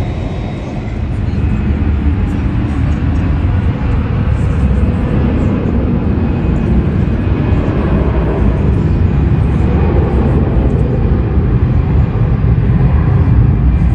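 Jet airliner engines rumbling, a loud low roar that swells about a second and a half in and then holds steady.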